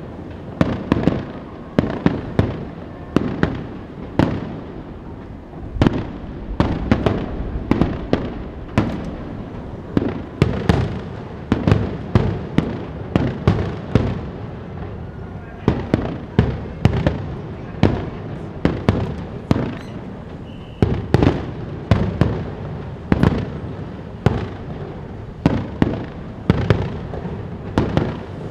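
Aerial fireworks display: a rapid, continuous barrage of shell bursts, booms following each other several times a second with crackling tails. A steady low wind rumble sits on the microphone underneath.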